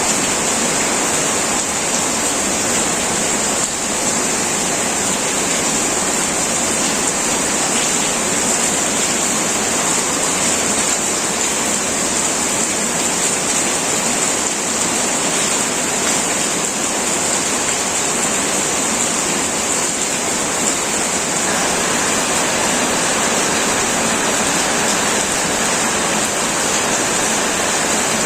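Heavy rain pouring onto a tin roof, a steady dense hiss with no thunder.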